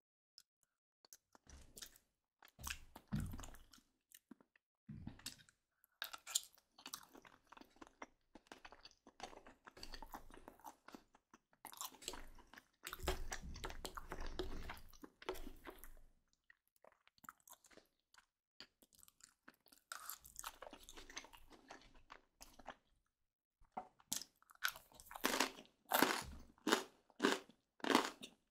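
Close-miked eating sounds: chewing and biting into crispy garlic baguette crust, with wet chewing of creamy chicken-and-mushroom julienne. The chewing comes in irregular bouts, and near the end turns to a quick run of loud crunches about two a second.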